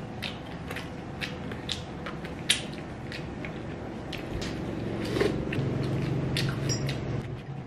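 Close-up eating sounds of balut being chewed: many short wet mouth clicks and smacks, with a spoon scraping in the eggshell. About five seconds in a low closed-mouth hum joins the chewing.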